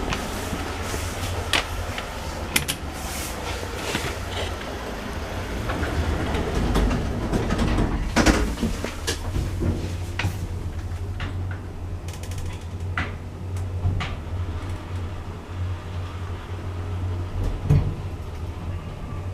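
Modernised Thyssen lift in operation: a steady low hum from the running lift, with scattered mechanical clicks and knocks. The loudest knock comes about eight seconds in.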